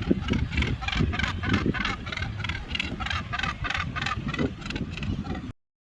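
Footsteps crunching along a path at a brisk walking pace, about three steps a second, with wind rumbling on the microphone; the sound cuts off suddenly near the end.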